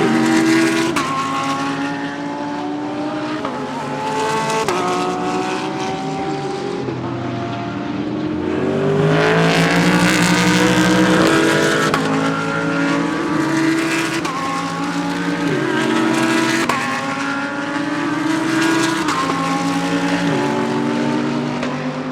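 GT3 race cars driving past on the circuit, their engines climbing in pitch and dropping back at each upshift, several cars one after another. The loudest pass comes about nine to twelve seconds in.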